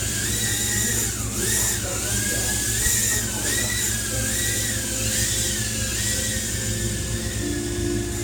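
Small quadcopter drone's motors and propellers whining steadily, the pitch dipping and rising again several times as the throttle changes.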